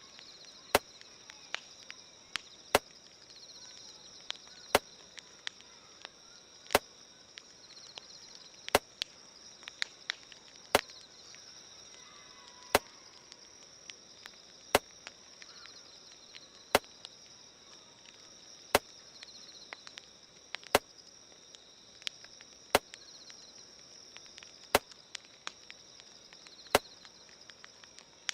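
Campfire crackling with small irregular pops, over steady chirring of insects. A louder sharp tick repeats evenly about every two seconds.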